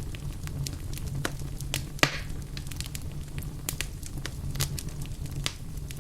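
Wood fire crackling in a fireplace: scattered sharp pops over a low steady rumble, with one louder pop about two seconds in followed by a brief hiss.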